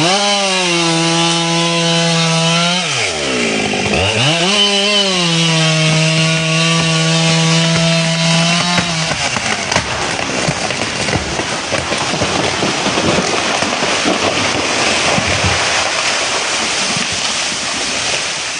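Chainsaw engine revved up to full throttle and held twice, for about three seconds and then about five, dropping off in between. After that comes a rough, steady noise with no clear pitch.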